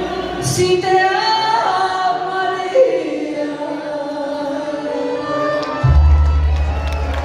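Live band with a woman singing long, held melody lines. About six seconds in, a deep bass note comes in and holds.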